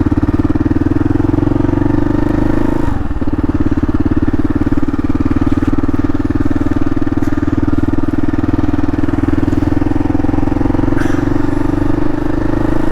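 Kawasaki KLR 650's single-cylinder engine running under way, a steady loud engine note with wind and road noise, picked up by a helmet-mounted mic. About three seconds in the note breaks briefly and drops, a gear shift, then carries on steadily.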